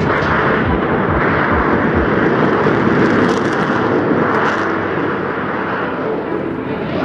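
Loud jet-engine roar, rumbling and rushing, swelling and easing, with a few deep sliding rumbles in the first two seconds.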